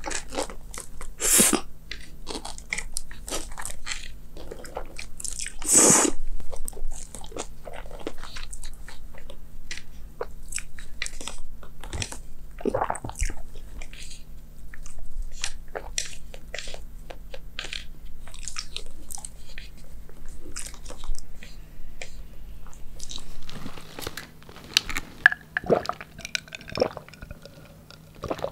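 Close-miked mouth sounds of a person biting into and chewing crisp food, a steady run of crunches with two louder bites in the first few seconds. The crunching thins out to sparser, quieter clicks near the end.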